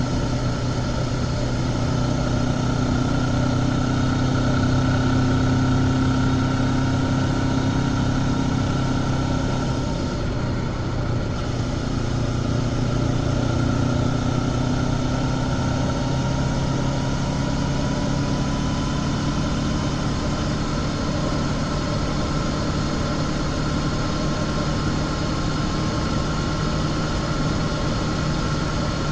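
Honda CB500X's parallel-twin engine through its stock exhaust, running steadily at road speed. The engine note eases briefly about ten seconds in, then slowly climbs again.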